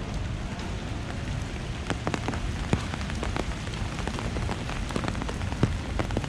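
Steady rain, with scattered sharp ticks of drops landing close by, over a low rumble.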